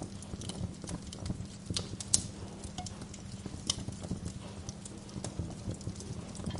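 Wood fire in a fireplace crackling, with frequent small irregular pops and a sharp, louder pop about two seconds in, over a low steady rumble.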